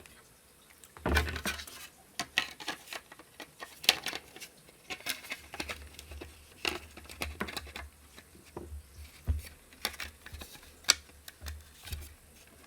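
Irregular small clicks, taps and rattles of hands handling a circuit board and small parts against a 3D-printed plastic case, with a couple of sharper knocks about four seconds in and near eleven seconds.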